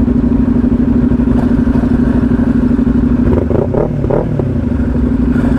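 CFMoto 450SS parallel-twin engine running at a steady cruising speed, its pitch holding level, over a low rumble of wind and road.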